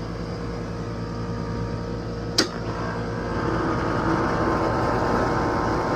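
Air conditioner outdoor condensing unit starting up: a sharp click about two and a half seconds in, then the running sound swells into a louder, steady hum as the compressor starts. The compressor is suspected of overheating and drawing too much current.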